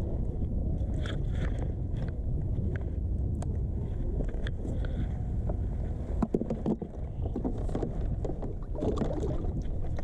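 Steady low wind rumble on the microphone from a kayak on the water, with scattered light knocks and rustling of handling in the boat. A louder clatter comes about six seconds in and again near the end.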